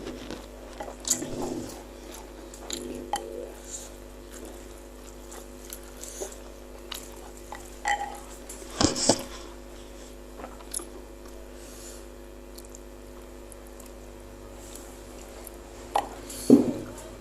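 Close-miked chewing and wet mouth sounds of a person eating bakso meatballs, with scattered soft clicks and smacks. Louder bites or slurps come about nine seconds in and again near the end.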